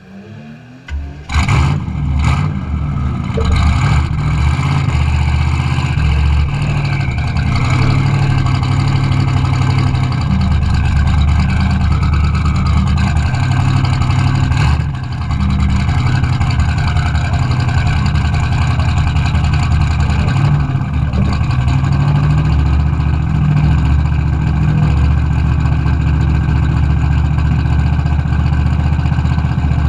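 A classic racing car's engine coming in suddenly about a second in, then running loud and close with steady, deep tones and a brief dip in level about halfway through.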